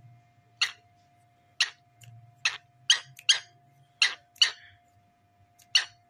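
Cockatiel giving eight short, sharp, loud chirps at irregular intervals, a few close together in the middle.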